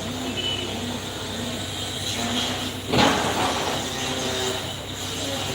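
Excavator digging soil: the engine runs steadily under a short wavering whine that repeats about twice a second, and a loud crash about three seconds in.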